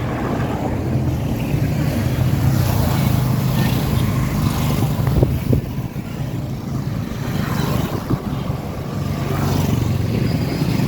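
A motor vehicle's engine running steadily, a low hum under road and wind noise, while moving along a smooth paved road.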